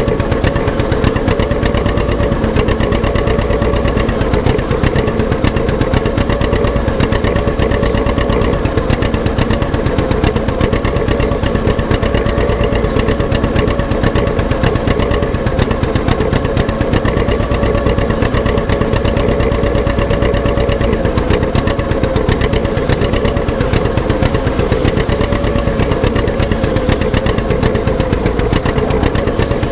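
Antique tractor engine running steadily under load at a tractor pull, with a fast, even firing beat and a pitch that wavers slightly.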